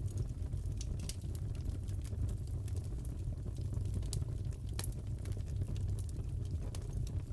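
Fireplace crackling: a steady low rumble of burning wood with scattered sharp pops and crackles.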